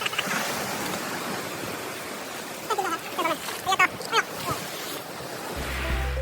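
Surf breaking against a rocky shore, a steady rushing wash. A few short calls sound around the middle, and music comes in near the end.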